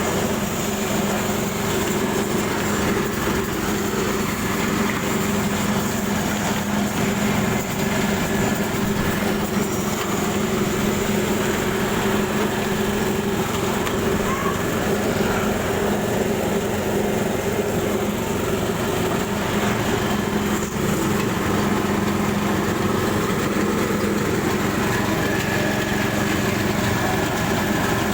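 Turmeric slicing machine running steadily on a test run, a constant mechanical hum with no change in speed.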